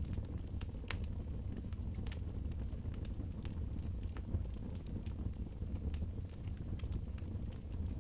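Wood fire crackling, with scattered irregular pops and snaps over a steady low rumble.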